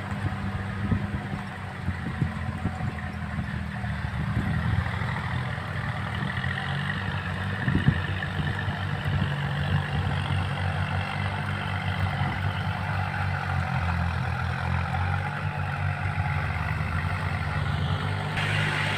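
Kubota tractor's diesel engine running steadily under load while rotary-tilling a rice paddy, with a few sharp knocks in the first several seconds.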